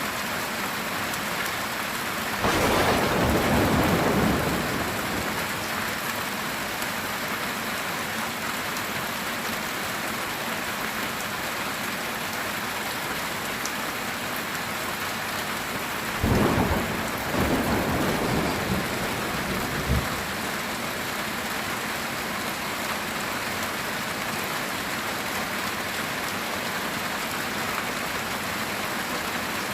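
Steady heavy rain on a metal tin roof, with two loud thunderclaps: one about two and a half seconds in that rumbles for about two seconds, and another about sixteen seconds in that rolls on for a few seconds and ends in a sharp crack.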